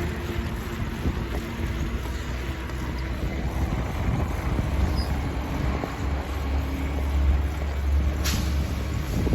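Compost truck's engine running with a steady low rumble that grows louder past the middle, and a short sharp noise near the end.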